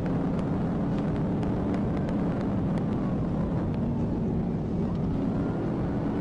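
Police patrol car driving at high speed in a pursuit: steady engine, road and wind noise heard from inside the cabin.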